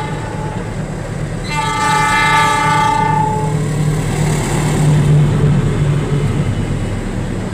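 Diesel locomotive horn sounding one long blast of about two seconds, starting about a second and a half in, over the steady rumble and wheel noise of a passing passenger train.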